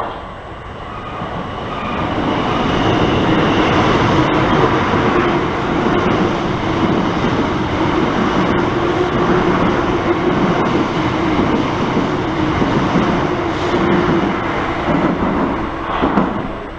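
Electric multiple-unit passenger train running along the platform: a loud rumble of wheels on rail with a steady motor hum. It builds over the first two seconds and eases off near the end.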